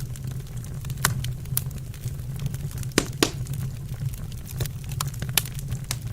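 Wood fire burning in a fireplace: a steady low rumble of the flames with irregular sharp crackles and pops of the burning wood, two louder pops close together about three seconds in.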